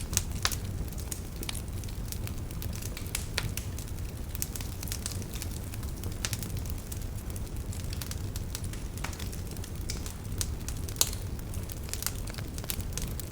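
Wood fire burning in a fireplace: a steady low rumble of flame with irregular sharp crackles and pops, one louder pop near the end.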